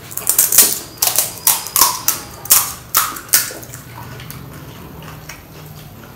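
Close-miked wet crunching of a mouthful of pani puri: crisp puri shells cracking in the spiced water, a quick run of sharp, loud crunches over the first three and a half seconds, then softer chewing.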